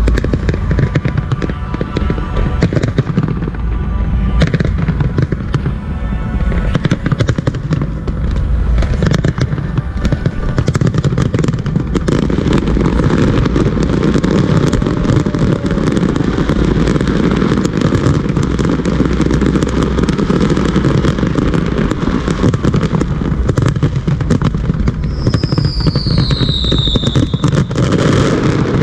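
Fireworks display: a dense, continuous barrage of bangs and crackling, with a falling whistle near the end.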